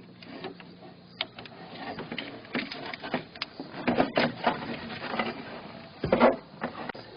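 Irregular clicks and rattles of hands working the plastic wire-harness connector of a tractor's starting safety sensor, loudest around four and six seconds in.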